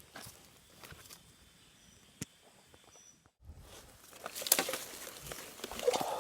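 Rustling and scuffing footsteps with scattered small clicks, and one sharp click about two seconds in. The rustling grows louder over the last two seconds.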